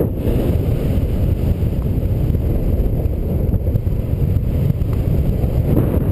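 Strong wind buffeting the microphone: a loud, continuous low rumble that rises and falls in gusts.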